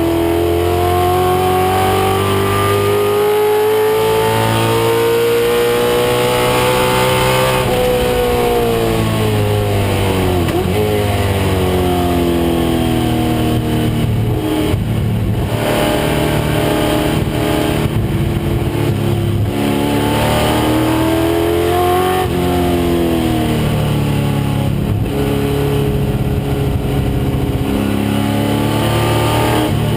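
1996 Ford Mustang race car's engine running hard on track. Its pitch climbs slowly for about seven seconds, drops sharply around eight to eleven seconds in as the car slows and shifts down, then climbs and falls again several times.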